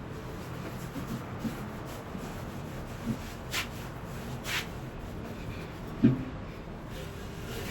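Rubbing and shuffling sounds of household cleaning, with two sharp clicks midway and a dull knock about six seconds in.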